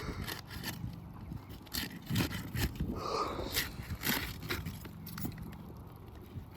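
Hand tools working on asphalt roof shingles: a string of scrapes, clicks and knocks as shingles are pried up and nails worked loose, with a short squeaky scrape about three seconds in.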